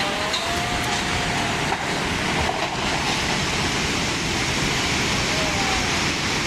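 Floodwater rushing through a city street: a steady, unbroken rush of water.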